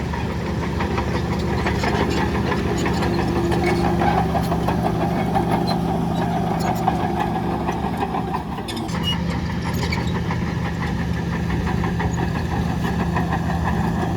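Heavy diesel engine of earthmoving machinery running steadily with a rattling clatter, easing off briefly and changing pitch about eight and a half seconds in.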